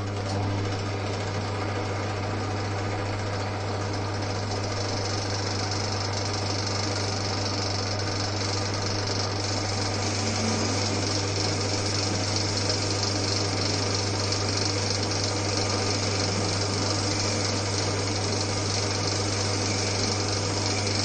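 Old Winfield metal lathe running steadily under power, its electric motor giving a constant low hum over the whirr and rattle of the drive, while the tool turns a boss down toward 22 mm. A brighter hiss joins in about four seconds in.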